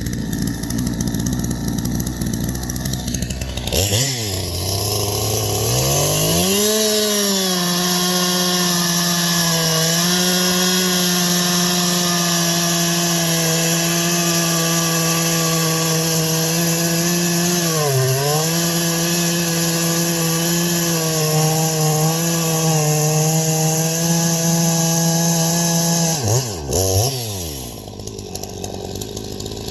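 Two-stroke chainsaw idling, then brought up to full throttle about four seconds in and held at a steady high pitch through a long cut in wood, dipping briefly once midway. Near the end the throttle is released and it falls back to idle.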